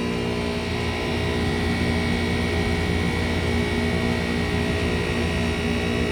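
Outdoor heat pump units running in heating mode: a steady hum of compressor and fan with several steady tones over it.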